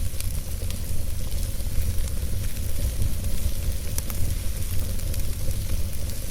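Log fire burning in a fireplace: a steady low rumble and hiss of the flames, with a few sharp crackles and pops from the wood, the clearest about four seconds in.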